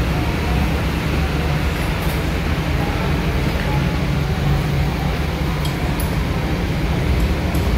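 Steady low rumble of vehicle and machinery noise in an auto repair shop, with a few faint light metallic clinks.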